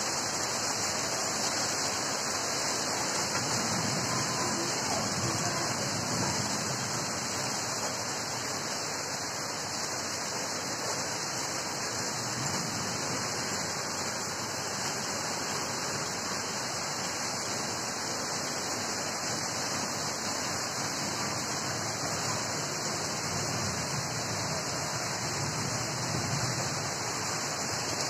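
Heavy rain pouring steadily in a storm: a dense, even hiss of rainfall.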